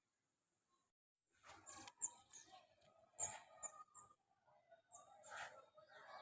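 Small birds chirping in short, high chirps, starting about a second in.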